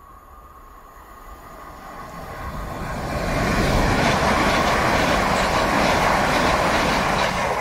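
Great Western Railway multiple-unit passenger train approaching and running past the platform. Its noise grows louder over the first three seconds, then holds as a steady, loud rush of wheels on rails.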